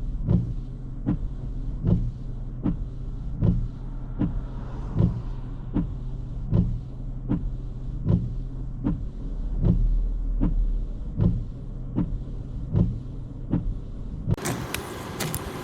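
Inside a vehicle with its engine running: a low steady hum under a regular sharp tick, about four ticks every three seconds. Near the end, a louder rushing noise comes in suddenly.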